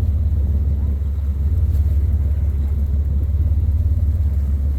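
Whale-watching boat's engine running steadily, a deep low rumble with a fast even throb, heard from on board.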